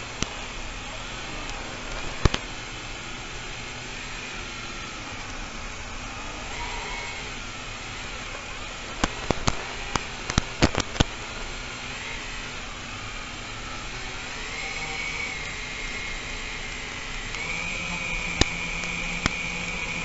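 FPV drone's brushless motors and propellers whining over a hiss of wind and air, the pitch dipping and rising with the throttle and climbing to a held high whine near the end. A few sharp clicks about 9 to 11 seconds in.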